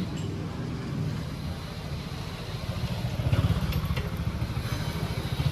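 Street traffic: a motor vehicle's engine, likely a motorcycle, running close by as a low pulsing rumble that grows louder about three seconds in.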